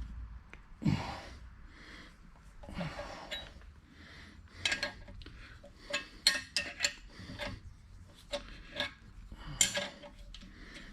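Hand-tool work on a 396 engine block as a threaded insert is screwed into a head bolt hole: a few short scrapes and creaks, then a run of sharp metal clinks in the second half.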